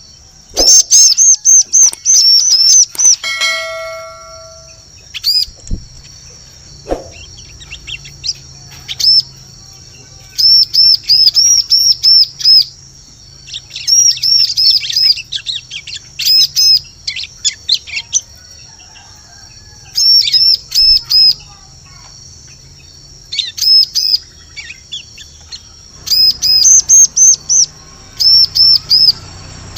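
Ciblek (bar-winged prinia) calling: quick, high, sharp chirps in bursts of several notes, repeated every few seconds. A short ringing tone sounds once about four seconds in.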